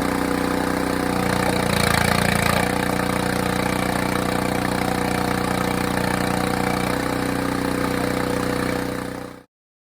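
Small gas engine of a log splitter running at a steady speed. About two seconds in it briefly grows louder and its note shifts, as it would under load while the ram pushes through a round. The sound cuts off abruptly just before the end.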